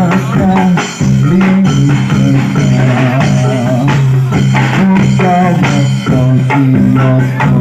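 Live music from a reog and jaran dor troupe's ensemble: loud, steady playing of held low melodic notes over regular drum strokes.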